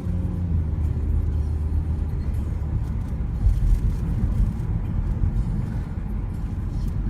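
Road vehicle engine running with low road rumble in traffic: a steady low engine hum for the first few seconds, then a broader rumble.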